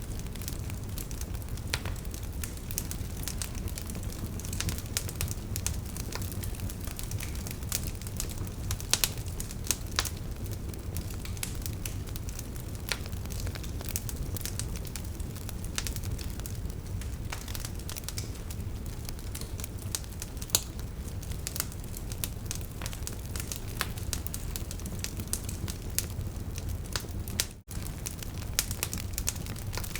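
Wood fire burning, with frequent sharp crackles and pops from the logs over a steady low rumble. The sound drops out for a moment near the end.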